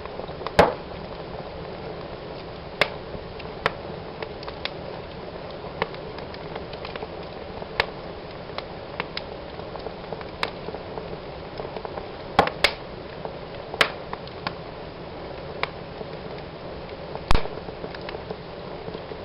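Wood fire burning in a fireplace: a steady hiss of flames with irregular sharp crackles and pops from the burning logs, a few louder pops about half a second in, around twelve seconds in, and near the end.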